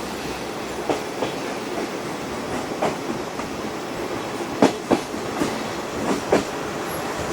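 Passenger coach running along the line, heard from inside the car: a steady rumble with pairs of sharp clicks as the wheels pass over rail joints.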